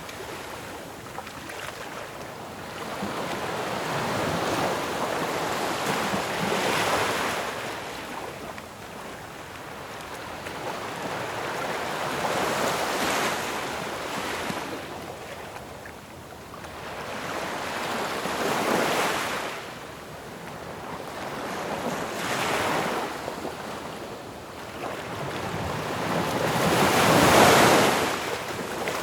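Ocean waves breaking on a shore, one after another every five or six seconds, each a rising rush of surf that falls away in a hiss; the loudest wave breaks near the end.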